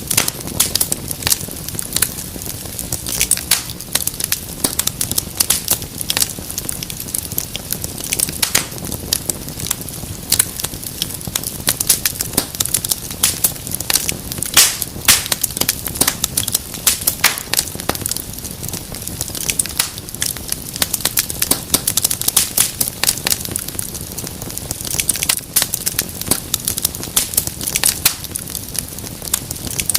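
Wood fire crackling and popping: dense, irregular sharp snaps over a steady low hiss of burning.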